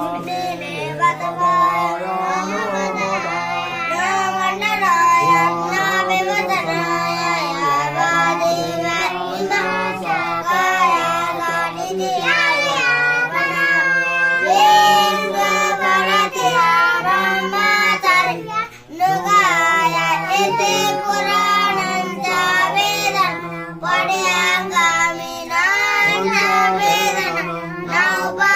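Background song: a child's voice singing a wavering melody over a steady low accompaniment.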